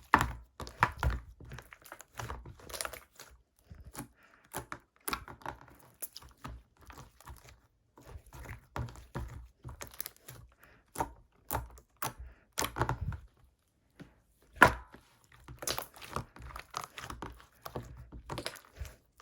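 Irregular light taps and knocks, a few to several a second, with short pauses between runs.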